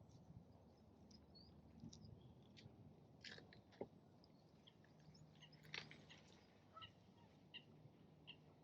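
Faint scattered short bird chirps and small clicks over a quiet background, with a low steady hum coming in about halfway through.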